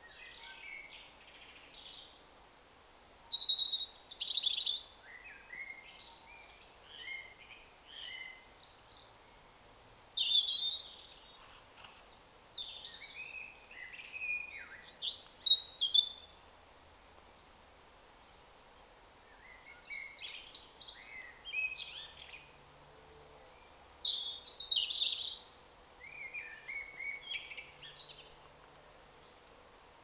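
Birdsong: high, quickly varying phrases of a second or two each, coming about every three to five seconds with short pauses between, over a faint steady background hiss.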